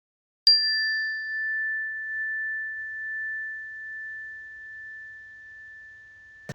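A single struck ringing tone: a sharp strike about half a second in, with a brief bright overtone, then one pure high tone that rings on and slowly fades.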